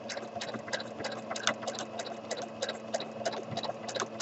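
Sewing machine stitching slowly during free-motion stitching on canvas backed with felt, its needle ticking about four to five times a second over a steady motor hum.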